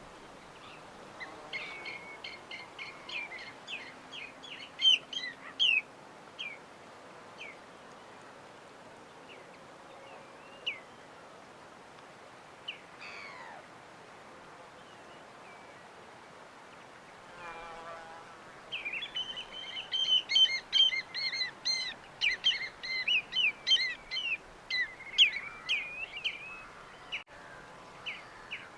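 Small birds chirping and twittering in quick runs of short, high notes, with two busy spells: one near the start and a louder one in the second half, over a faint steady background hiss.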